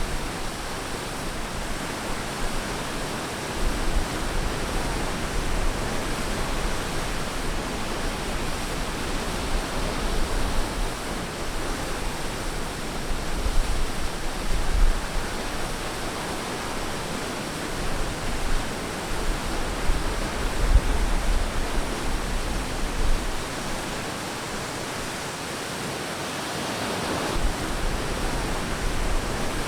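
Ocean surf washing onto a beach: a steady rush of water noise that swells and eases as waves break every few seconds.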